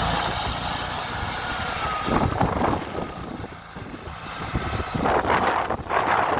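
Heavy truck engine running, with wind buffeting the microphone from about five seconds in.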